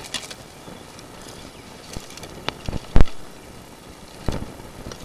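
Knocking and crackling of a sewer inspection camera and its push cable being worked inside a drain pipe, with a couple of sharp clicks, one heavy thump about three seconds in, and another knock a second later.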